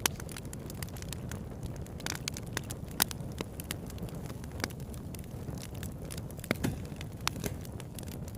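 Campfire burning with a steady low rumble, irregular crackles and a few sharp pops from the burning wood, the loudest about three seconds in.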